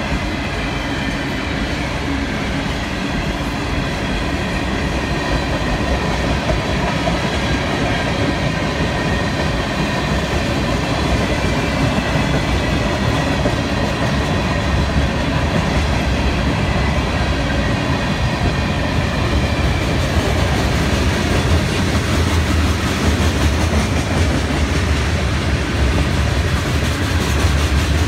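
Freight train cars rolling past at a grade crossing: a steady, loud rumble of wheels on rail. The low rumble grows stronger about halfway through, as covered hoppers follow the refrigerated boxcars.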